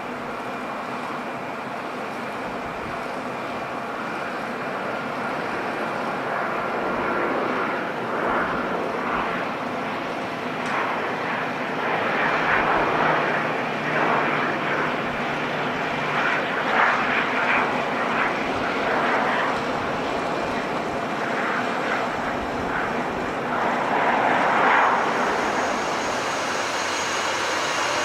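Airliner engines running, a continuous rushing drone with steady tones in it. It grows gradually louder and swells in bursts through the middle and again near the end.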